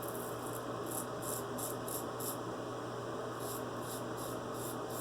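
Double-edge safety razor scraping through lathered stubble under the jaw: short, crisp strokes about three a second, in one run, then a pause of about a second, then another run.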